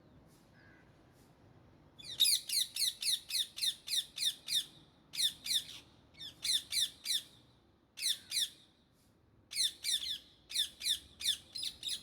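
Indian ringneck parakeet giving rapid runs of high, harsh squawking calls, about four to five a second, in several bursts with short pauses, starting about two seconds in.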